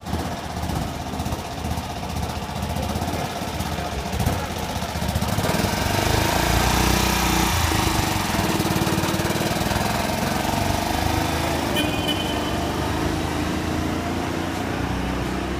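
BMW Isetta bubble car's single-cylinder four-stroke engine running as the car is driven slowly, a rapid even pulse. It grows louder about six seconds in as the car passes close, then slowly fades.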